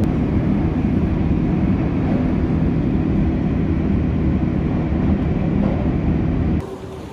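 Steady low rumble of a moving vehicle, cutting off abruptly about six and a half seconds in.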